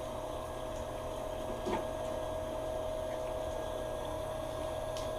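Steady machine hum with one constant mid-pitched tone, and a faint tick about two seconds in and another near the end.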